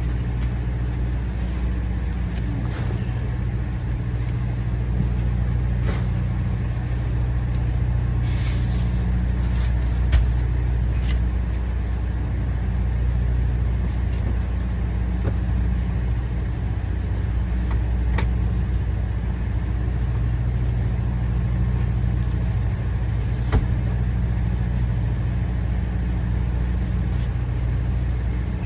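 Heavy truck engine idling steadily, a low even hum, with a couple of faint clicks.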